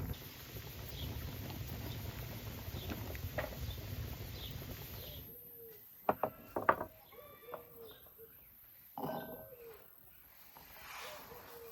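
Birds calling in short pitched calls, with a few sharp clicks about six seconds in. A steady rushing noise fills roughly the first half, then stops suddenly.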